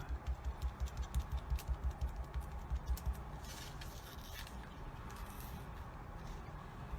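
Ink dabber tapped rapidly on a stencil laid over card, soft thuds about four or five a second. The tapping eases off after about three seconds, with a brief rubbing sound around the middle.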